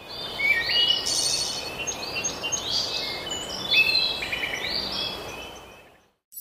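Many birds chirping together over a steady hiss, fading in at the start and fading out near the end.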